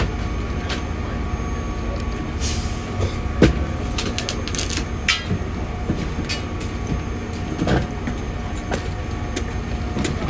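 Steady engine rumble of fire apparatus running at the fireground, with scattered knocks and clatter and a couple of brief hisses.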